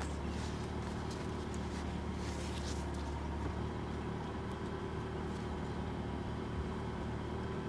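A motor vehicle's engine running steadily: a continuous low drone with no change in pitch.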